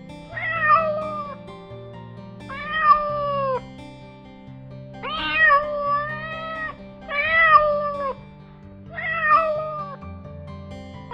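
Domestic cat meowing five times, each meow about a second long and dropping in pitch at its end, over soft background music.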